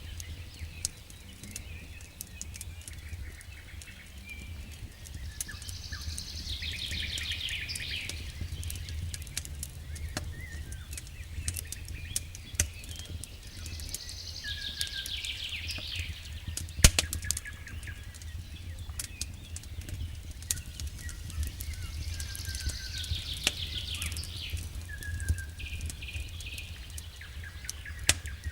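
Wood fire in a fireplace crackling with scattered sharp pops, the loudest about 17 seconds in, over a low steady rumble. Birds chirp in rapid trilling bursts three times, about every eight seconds.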